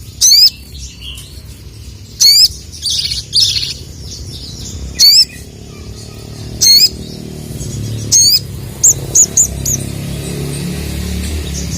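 Male ruby-cheeked sunbird (sogok ontong) giving loud, sharp chirping calls, repeated every second or two, with a quick run of four short high notes near the end. It is calling in the way used to provoke a rival male. A low rumble runs underneath and grows louder over the second half.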